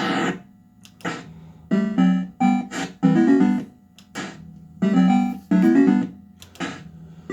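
Bell-Fruit Cash Explosion fruit machine playing its electronic sound effects: a string of short, bright pitched notes, with quick note runs about three seconds in and again near six seconds.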